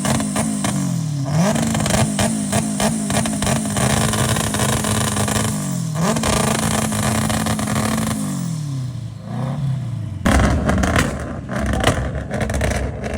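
A loud car engine revving, its pitch held, sliding down and jumping back up a few times, with many sharp pops and clicks over it; about ten seconds in it turns into a louder, rougher rush.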